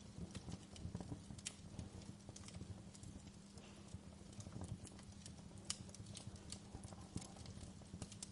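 Wood fire crackling, with irregular sharp pops and snaps over a steady low rumble and a soft, even hiss of rain.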